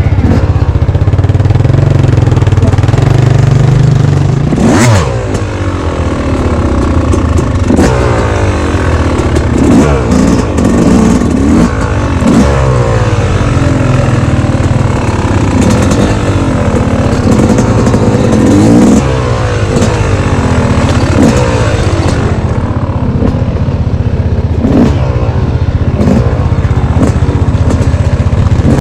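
Yamaha YZ250 two-stroke dirt bike engine under way on a trail, held steady for a few seconds, then revved up and down again and again as the throttle opens and closes, with rattling and knocks from the bike over rough ground.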